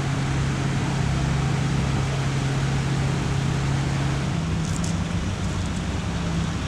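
A car engine running steadily, its low hum stepping up a little in pitch about four seconds in.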